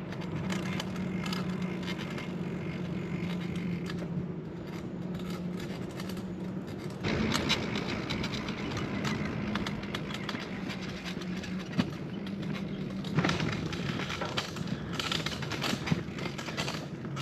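Bicycle rolling along a road: a steady hum with rattles and clicks. The hum drops out about seven seconds in and the noise turns rougher.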